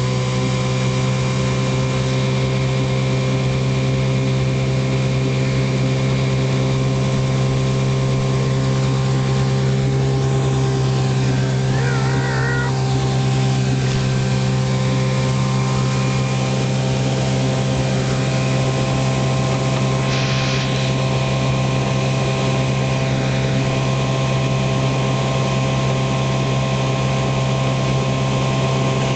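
Outboard motor running at a steady speed, an even drone that holds its pitch with no revving.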